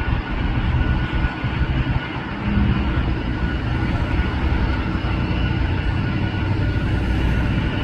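Jet airliner engines, a steady roar with deep rumble and a thin steady whine above it.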